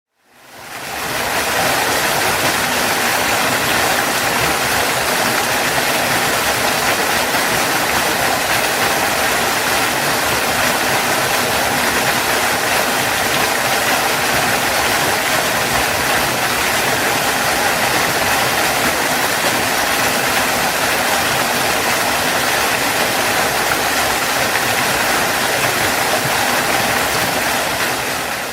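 Waterfall: a steady, loud rush of falling water, fading in over the first second or so and fading out at the very end.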